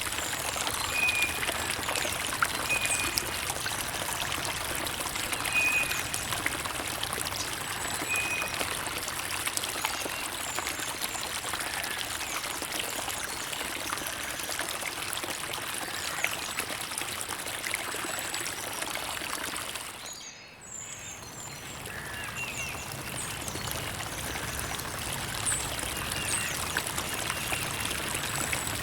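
Creek water trickling and babbling steadily, with a few short high bird chirps in the first several seconds. The water sound briefly drops away about twenty seconds in, then comes back.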